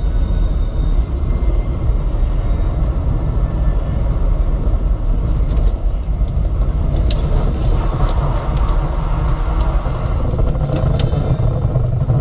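A car driving on a winter road: a steady low rumble of engine and tyre noise, with a few faint ticks partway through.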